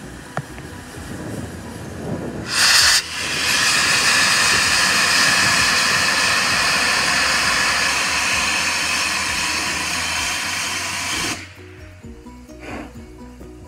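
Steam locomotive, the LMS Royal Scot class 46100, moving off with its cylinder drain cocks open. A sharp burst about two and a half seconds in is followed by a loud, steady hiss of steam that cuts off suddenly about eleven seconds in.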